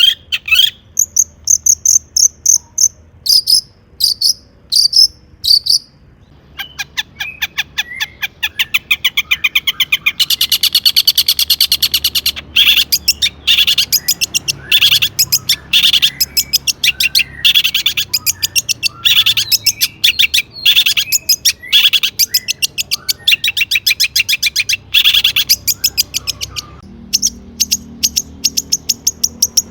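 Long-tailed shrike (cendet) singing hard. A few seconds of spaced high chirps turn, about six seconds in, into a fast, unbroken chattering run of notes.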